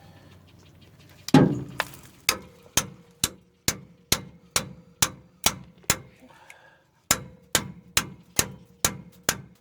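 Hammer blows on steel, about two a second, with a short break in the middle and a faint metallic ring under them. They are hammering on a brake caliper slide pin that is seized with dry rust.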